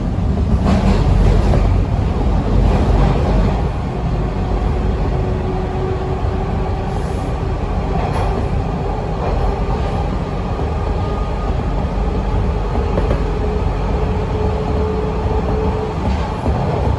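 TTC T1 subway car running between stations, heard from inside the car: a steady rumble of wheels on the track, with a faint motor whine that slowly rises in pitch.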